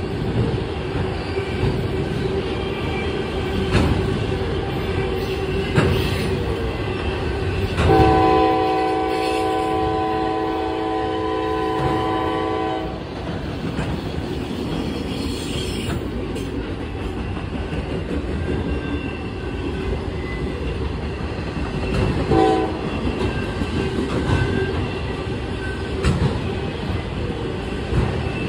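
CSX freight train rolling past with a steady rumble of wheels on rail and occasional knocks. About eight seconds in, a locomotive air horn blows a multi-note chord for about five seconds, and a short horn toot follows near the end.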